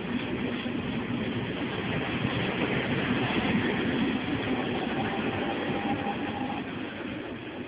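Double-deck regional passenger train rolling past along the platform: a steady rumble of wheels on rails, loudest in the middle and easing off as the last carriages go by. A faint high whine is heard for a second or so about five seconds in.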